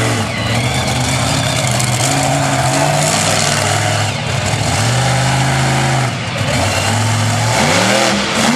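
Monster truck engine running hard at high revs, the pitch dropping off and climbing back again several times.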